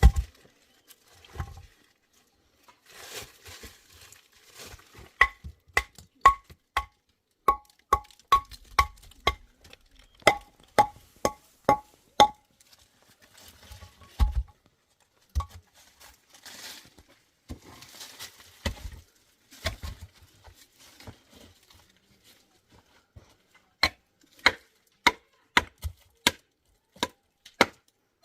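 Repeated sharp strikes of a metal tool, each with a short metallic ring, in runs of about two strikes a second, with bouts of scraping between the runs.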